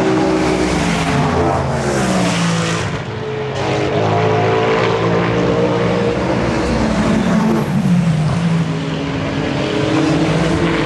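Endurance race car engines at speed passing trackside, one after another, each one's pitch falling as it goes by.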